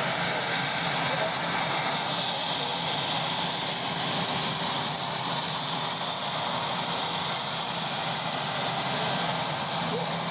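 Marine One helicopter's turbine engines running steadily, a constant rushing noise with a thin high whine.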